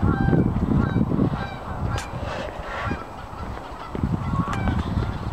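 Short honking bird calls, repeated several times, over a low rumbling noise that is strongest in the first second or so.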